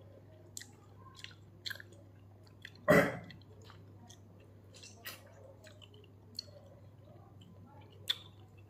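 Chewing and wet mouth sounds of someone eating ripe mango: scattered smacks and clicks, with one much louder noise about three seconds in, over a faint steady hum.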